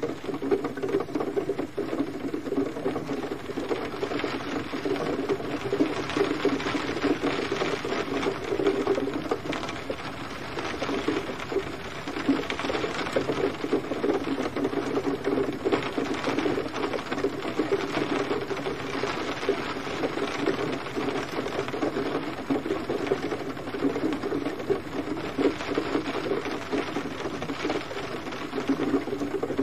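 Gentle rain falling steadily, a dense, even patter of many small drops tapping on a surface.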